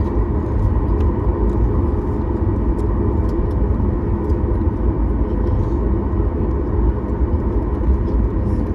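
Steady cabin rumble of a Boeing 737 MAX 9 airliner, its CFM LEAP-1B turbofans and airflow giving a deep, even roar with a faint steady hum above it.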